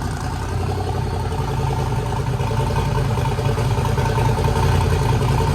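Twin-turbo Corvette Z06 V8 idling steadily.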